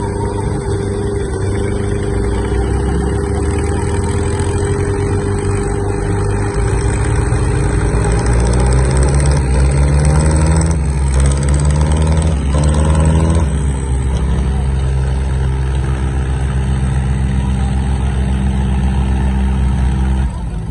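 Diesel tractor engines of a Mahindra 595 DI Turbo and a Powertrac 455 running hard under load in a tug-of-war pull. Engine pitch shifts and the sound grows louder for a few seconds around the middle, then settles steady again.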